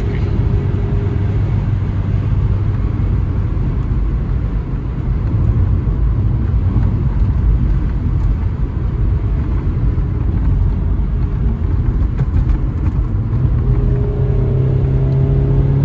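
Toyota Carina E's 1.6-litre 16-valve four-cylinder engine and road rumble while driving. The engine's hum is steady at first and gives way to an even road and tyre rumble. Near the end the engine pulls again, its pitch rising slowly as the car accelerates.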